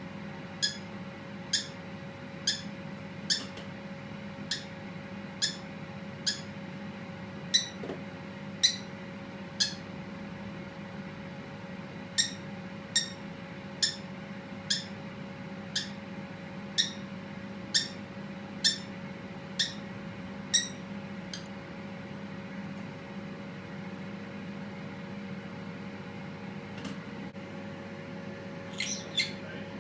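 Pet parakeet giving short, sharp, high chirps, one about every second, that stop about two-thirds of the way through, with a few more near the end. A steady low hum runs underneath.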